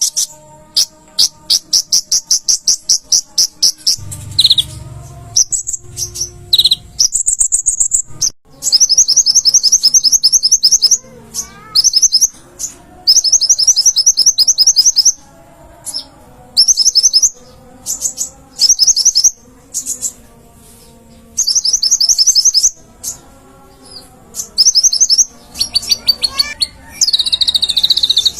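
Konin (kolibri ninja) sunbird singing. It gives rapid, very high-pitched trills in repeated bursts of a second or two, with short pauses between them.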